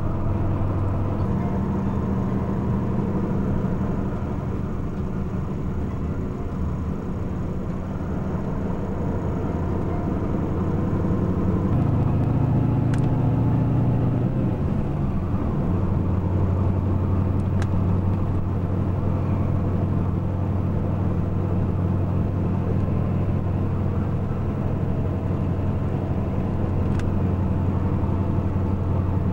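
Steady engine hum and road noise of a moving road vehicle, heard from inside. The engine note shifts and swells about halfway through, then settles again.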